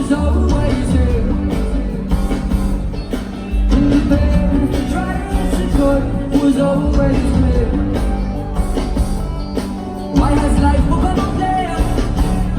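Live pop-rock concert music heard through a fan's phone recording: a full band with heavy bass and drums, and some singing over it.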